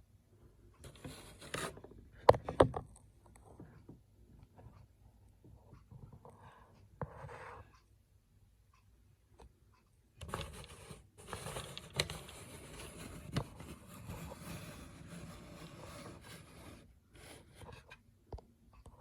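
Scraping and handling noises. Two sharp knocks come about two and a half seconds in, and a longer stretch of steady scraping runs from about ten to seventeen seconds.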